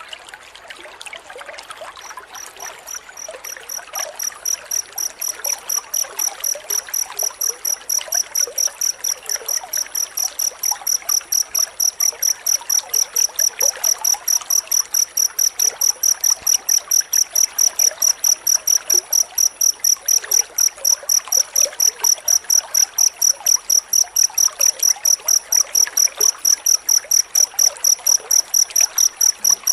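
Cricket chirping in quick, evenly spaced high pulses, about three to four a second. It comes in about two seconds in and grows louder, then holds steady. Under it runs a steady hiss like trickling water.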